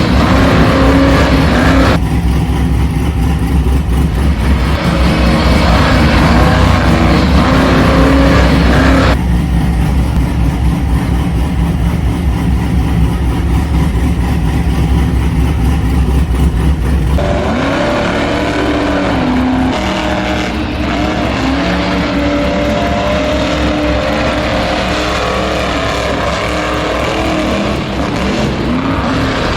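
Radio-controlled monster trucks driving, their electric motors whining and revving as the throttle goes on and off. The sound changes abruptly a few times, about two, nine and seventeen seconds in.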